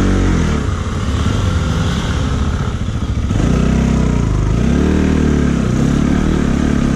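Motorcycle engine heard from the rider's seat, its pitch rising and falling several times as the throttle is opened and closed on a steep, rocky dirt climb.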